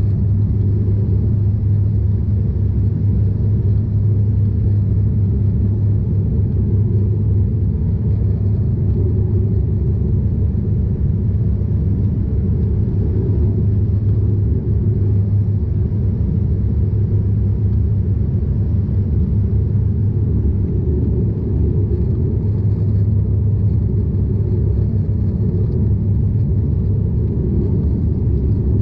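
Cabin noise inside a DHC8-Q400 turboprop airliner in flight: a steady, loud low drone from the propellers and engines with rushing airflow, unchanging throughout.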